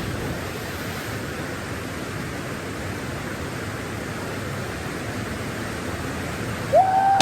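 Waterfall rushing: a steady, even roar of falling water. A brief call rises and holds near the end.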